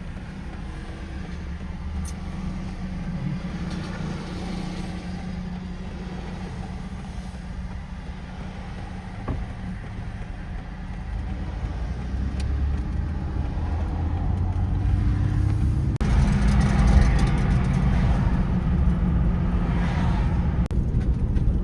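Ford Explorer engine and road noise heard from inside the cabin while driving: a steady low drone with tyre hiss, getting louder about three quarters of the way through.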